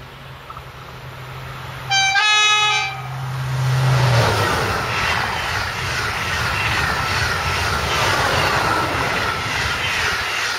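TGV high-speed train, two sets coupled, approaching with a growing low hum and sounding its horn once, for about a second, about two seconds in. It then passes close at speed, with loud, steady wheel and air noise from about four seconds on.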